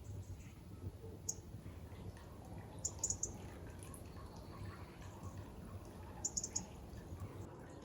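A small bird giving short, high chirps in quick clusters three times, over a faint steady low rumble.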